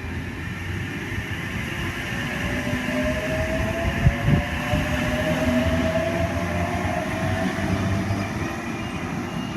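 Electric Oscar (H-set) suburban train pulling away from the platform, its traction motors whining upward in pitch as it gathers speed over a steady rumble of wheels on rail.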